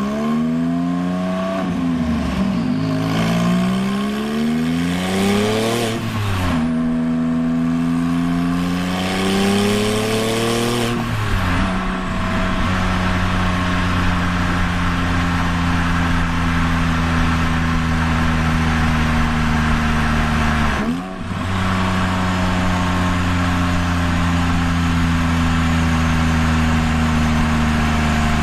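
Straight-piped 2001 Porsche 996 911 Turbo twin-turbo flat-six revving up several times in a row as the car accelerates through the gears. It then settles into a steady drone at constant engine speed, with a brief lift-off about two-thirds of the way through.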